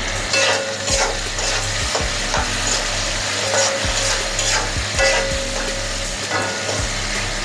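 Shrimp and sliced onions sizzling in hot oil in a metal kadai, with repeated scrapes of a spatula stirring them against the pan.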